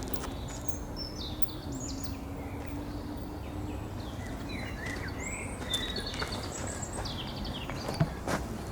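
Small birds chirping here and there over a steady low outdoor background rumble, with a faint steady hum in the first half and a couple of sharp clicks near the end.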